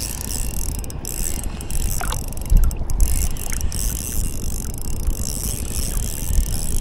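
Wind buffeting the microphone in a steady low rumble, over a constant high hiss.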